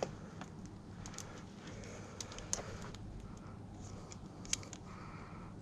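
Cutters snipping at a TV's power cord to take the plug off: a few sharp, separate clicks over a faint steady background.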